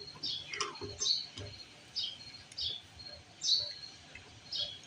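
A small bird chirping over and over: short chirps that slide downward, roughly one a second, with brief thin high notes between them. A few faint knocks lie underneath.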